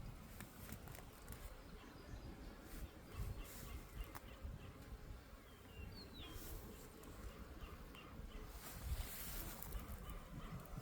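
Faint buzzing of honey bees around an opened hive, with a few light knocks from the hive being worked. A brief bird chirp comes about six seconds in.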